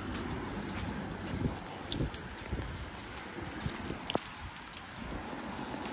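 Steady rain falling on a wet paved street, with scattered drop ticks and footsteps on the wet paving.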